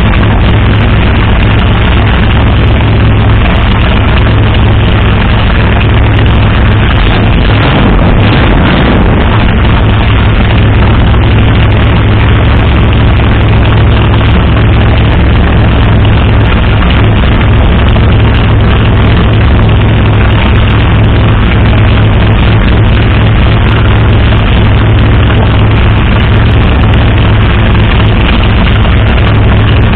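503 cubic inch big-block Ford V8 with a big solid-lifter cam, running at a steady idle through short open side-dump exhaust pipes, very loud, after a cold start.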